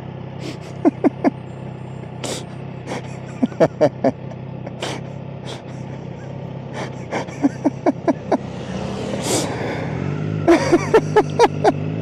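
Motorcycle engine idling steadily, with runs of three to six short bursts of a person's voice in quick succession, four times.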